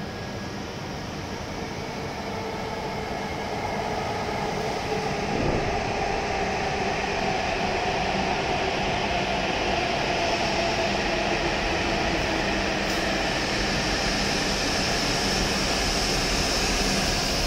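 W7 series Shinkansen train running slowly into a station platform. The rolling and running noise grows louder over the first five or six seconds, then holds steady as the carriages glide past.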